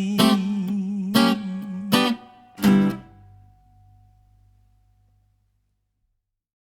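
Guitar playing the closing chords of a swing tune: four strummed strokes, the last and loudest ringing out and dying away to silence.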